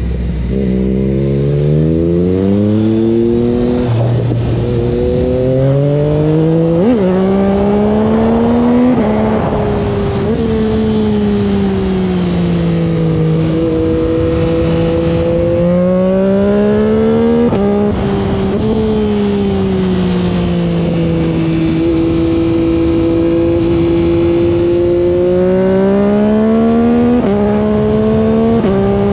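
Yamaha MT-09 SP inline three-cylinder engine through an Akrapovic exhaust, running under load. Its pitch rises and falls smoothly with the throttle and drops suddenly about four times, as at gear changes.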